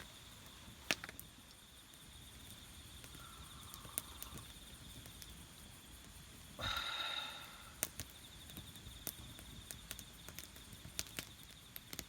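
Faint campfire crackling in sparse sharp pops over a steady high insect trill, with one louder, brief sound about six and a half seconds in.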